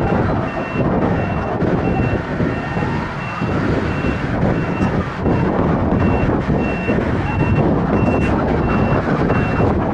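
A vehicle's reversing alarm beeping steadily, about one and a half beeps a second, over heavy engine and wind rumble. A siren wails faintly behind it.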